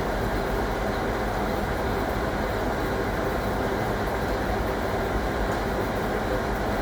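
1961 AEG Lavamat Noris washing machine running with a steady mechanical rumble and hum.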